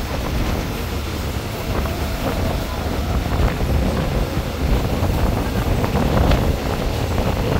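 Wind buffeting the microphone over the steady low rumble of a passenger train running along the track, with a few faint knocks from the wheels.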